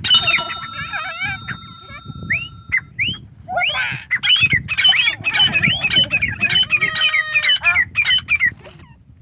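Grey francolin (desi teetar) calling: a loud, rapid series of repeated pitched call notes that stops shortly before the end.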